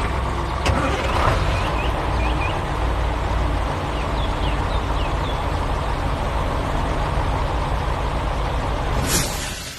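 Heavy truck engine running steadily, with a few faint chirps in the first half and a short hiss near the end.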